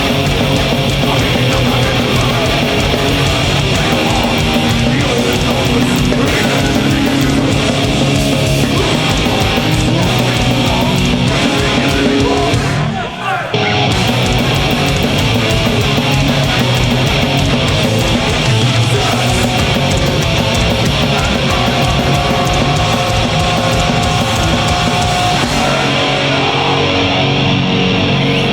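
Live heavy metal band playing at full volume: distorted electric guitars, bass and drums. There is a brief stop about halfway through, after which the band comes straight back in.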